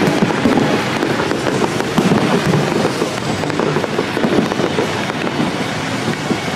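Aerial fireworks display: a dense, continuous run of overlapping shell bursts and crackling.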